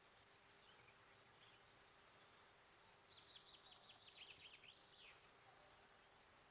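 A songbird sings one short phrase about three seconds in, faint over quiet outdoor background: a quick run of short notes that each drop in pitch, ending in a longer note that rises and falls.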